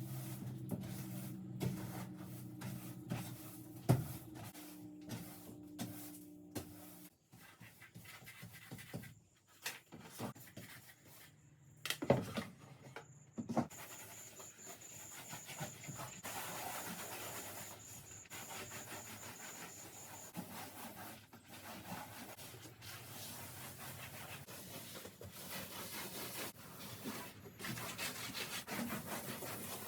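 Rubbing and scraping on a surface with scattered knocks. A steady low hum runs for the first seven seconds, and a faint high whine from about eight to twenty seconds in.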